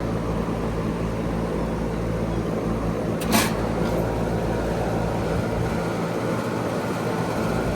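Goodman GSZB4 2.5-ton heat pump outdoor unit running steadily just after start-up: a steady hum from the scroll compressor under the rush of the condenser fan. There is a brief click about three seconds in.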